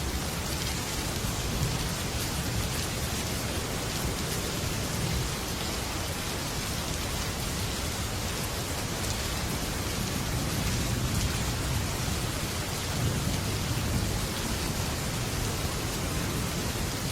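Heavy rain drumming steadily on a metal roof, with low rolling rumbles of thunder swelling now and then, strongest past the middle.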